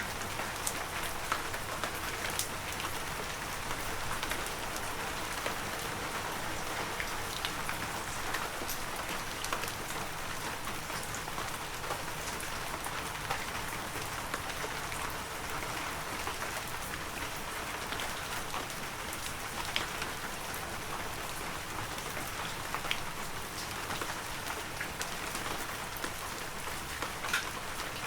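Heavy rain falling steadily in a forest, a dense, even hiss with many individual drops pattering sharply on near surfaces.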